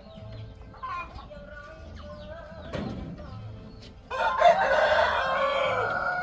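Chickens clucking and chirping, then a rooster crows about four seconds in, one loud crow lasting about two seconds.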